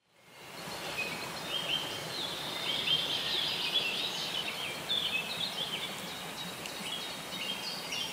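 Several birds chirping and singing, many short slurred notes over a steady outdoor hiss, fading in during the first second.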